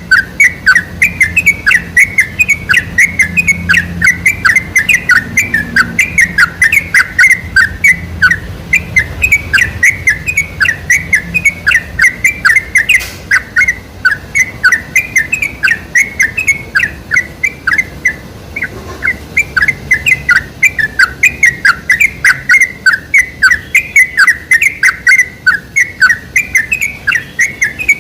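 Yellow-vented bulbul (trucukan) song: a fast, unbroken run of short chirping notes, several a second, used as a lure recording to set caged bulbuls singing.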